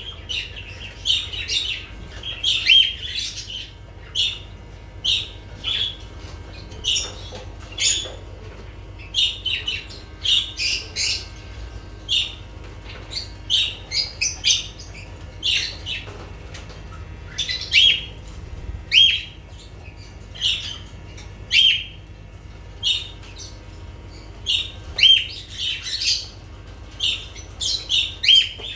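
Lovebirds calling: a run of short, shrill chirps and squawks, often several in quick succession, repeating irregularly.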